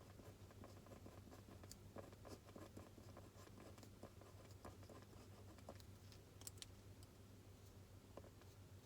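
Faint writing on paper: a pen or pencil scratching in short strokes, with small irregular taps, over a low steady room hum.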